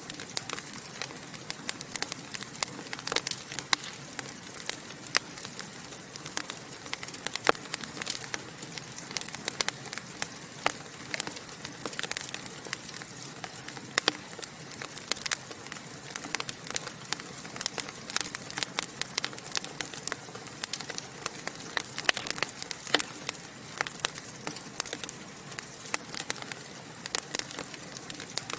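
Wood fire burning in a fireplace, crackling and popping irregularly over a soft steady hiss of flame.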